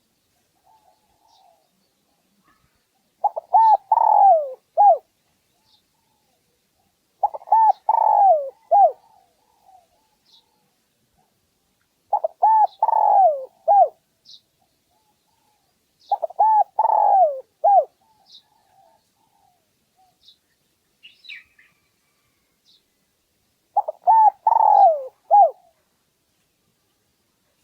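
Spotted dove cooing: its multi-note call phrase repeated five times, roughly every four to five seconds, with a longer pause before the last one.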